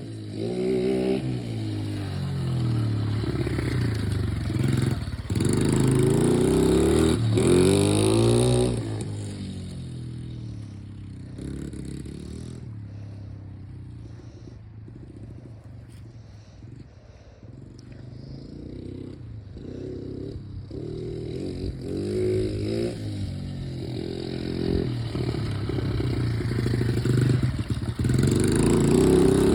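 Dirt bike engine revving up and down again and again, its pitch rising and falling. It is loudest for the first nine seconds or so, fades to a quieter run around the middle, then grows loud again near the end.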